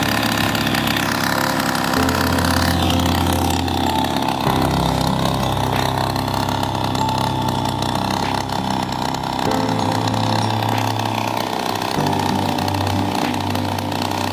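Small 49cc high-performance engine running, its speed settling at a new steady level every few seconds.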